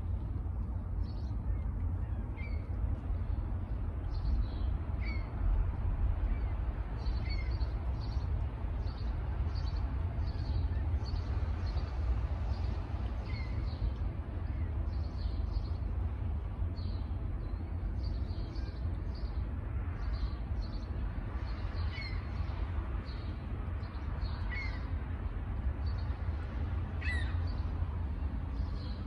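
Birds chirping over and over, short high calls about once a second with a few lower down-slurred notes, over a steady low rumble.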